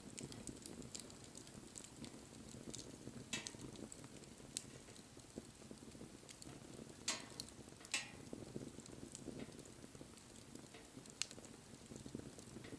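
Wood bonfire burning: a low steady rush of flame with scattered crackles and sharp pops. The loudest pops come about three, seven and eight seconds in.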